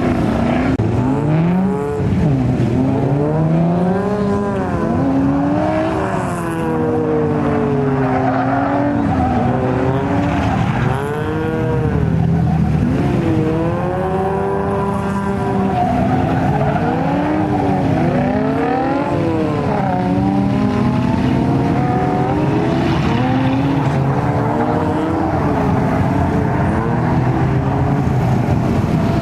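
Car engines revving, their pitch rising and falling over and over as a car is driven hard around the course, with other engines running steadily underneath and wind on the microphone.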